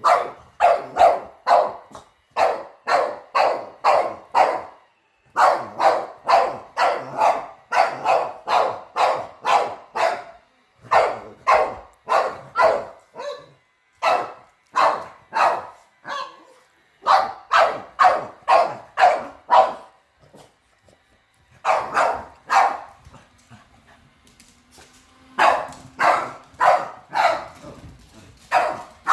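Boston terrier barking over and over in quick bouts of several barks, about two to three a second, with short pauses between bouts and a longer lull about two-thirds of the way through: alarm barking at a robot vacuum it has never seen before.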